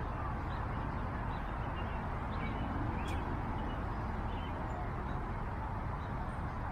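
Steady outdoor background noise with short, faint bird chirps scattered through it.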